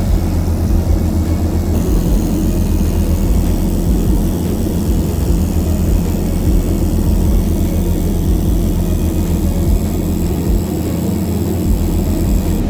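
Piper PA-28 light aircraft's piston engine and propeller droning steadily in cruise, a loud, even, low hum heard from inside the cabin.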